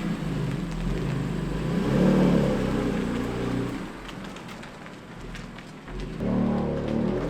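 Car engine running after a cold start: the revs rise about two seconds in and fall back, the engine runs quieter for a couple of seconds, then picks up again near the end.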